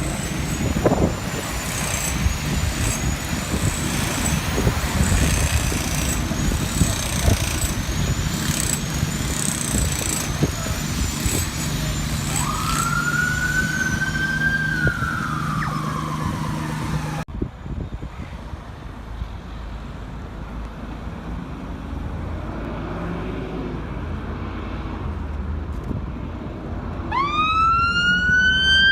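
Emergency vehicle sirens over a running engine. A high siren tone rises and falls about once a second. Near the middle a lower siren winds up and then down. Near the end a siren winds up again.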